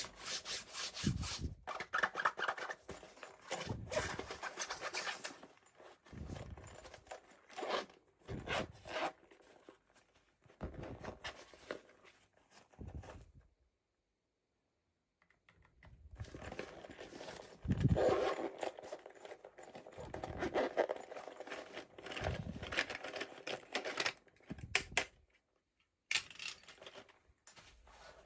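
Hands opening toy packaging: irregular tearing, scratching and crinkling of plastic and cardboard, stopping for about two seconds near the middle.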